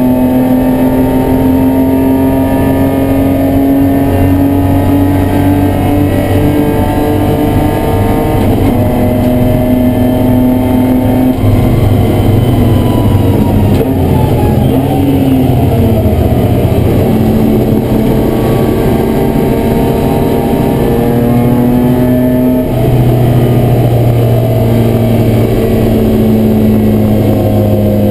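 BMW E30 race car's engine heard from inside the cabin, running hard on track. Its pitch climbs slowly through each gear and drops at the gear changes, with a stretch of falling pitch near the middle before it pulls up again.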